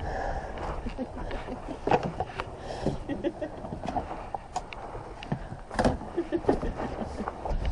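Scattered knocks, clicks and rattles of gear being handled aboard a small sailboat, over a steady low rumble.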